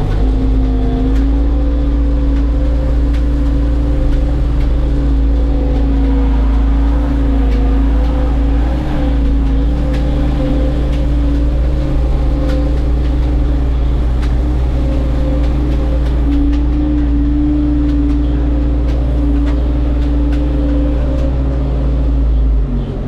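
Skid steer's diesel engine running steadily at high revs, pitch rising slightly about a second in, then dropping off near the end.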